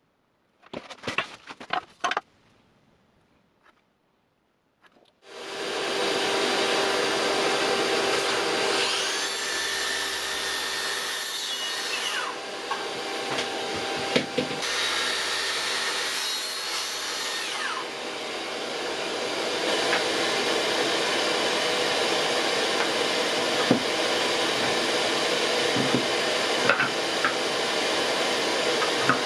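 A few light knocks, then an electric circular saw starts about five seconds in and runs steadily, cutting wood.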